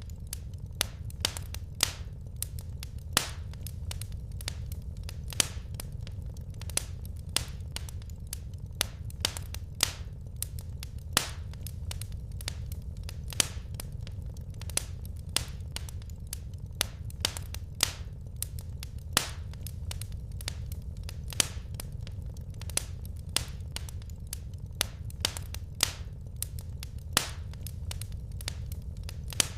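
Wood fire crackling in a fireplace: irregular sharp pops and snaps, a couple a second, over a steady low rumble.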